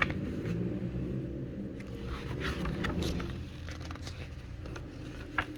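A steady low background rumble with a few faint scrapes and clicks.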